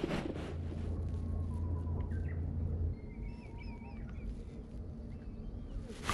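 Birds singing faintly in the background, thin warbling and chirping phrases. A low steady hum runs for the first three seconds and then stops.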